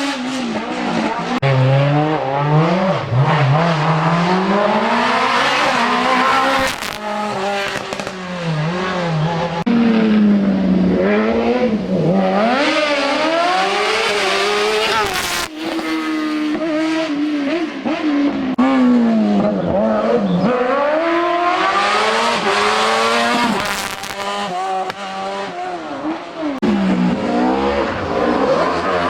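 Race car engine revving hard, its pitch climbing and dropping over and over as the car accelerates and brakes through the slalom's chicanes.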